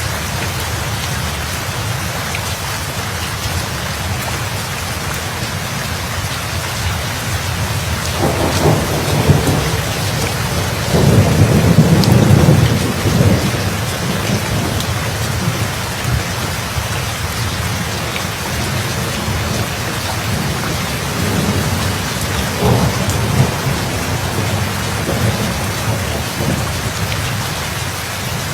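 Steady rain falling, with rolling thunder rumbling in about a third of the way through, loudest near the middle, then fading into weaker rumbles later on.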